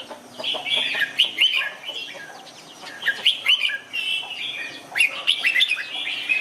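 Red-whiskered bulbul singing in quick clusters of short, bright, warbling chirps with brief pauses between phrases. This is a bulbul's full 'master' song, the kind played to caged bulbuls for them to learn.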